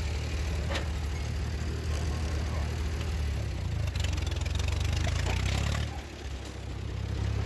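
Old tractor engine running steadily, with a louder, rougher stretch about four seconds in and a brief drop about six seconds in.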